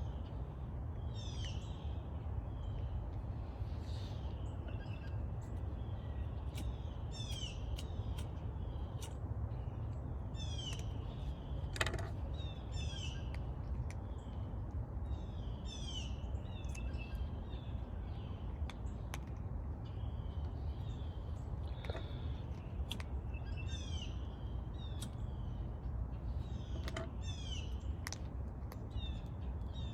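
Birds chirping, short calls repeating every second or two, over a steady low rumble, with a single sharp click near the middle.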